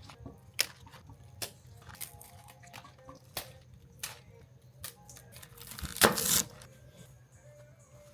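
Kitchen food-prep handling: irregular clicks and knocks of utensils and dishes, with a louder rustling noise about six seconds in, over a steady low hum.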